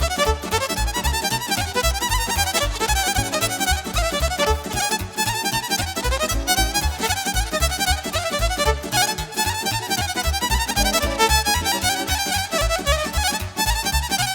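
Fast Romanian party music played live: a violin leads a quick, busy melody over a steady pounding bass beat, with no singing.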